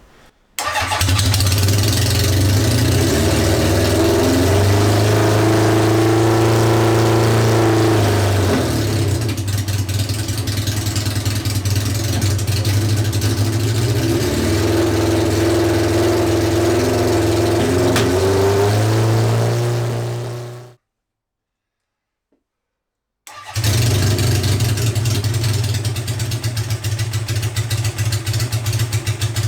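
Honda CB750 SOHC air-cooled inline-four running just after a cold start, revs rising and falling twice under the throttle. It runs on all four cylinders but not yet smoothly, which the owner puts down to cold weather and small main jets. The sound drops out completely for about two seconds past the middle, then the engine is heard running again.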